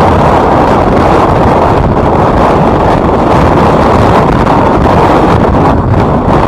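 Loud, steady wind rumble on the microphone from the rush of air while riding.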